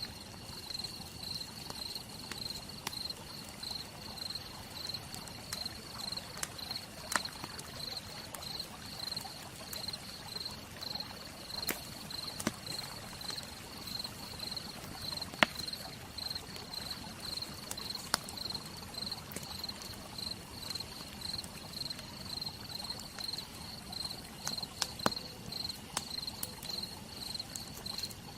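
Wood fire crackling, with scattered sharp pops, a few of them much louder than the rest. Behind it an insect chirps steadily in a high-pitched, even pulse, a couple of chirps a second.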